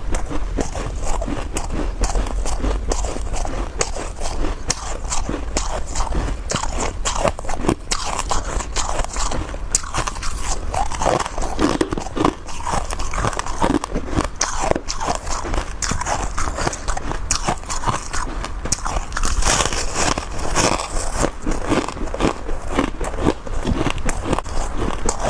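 Close-up biting and chewing of powdery freezer frost chunks: a continuous run of crisp, crackling crunches.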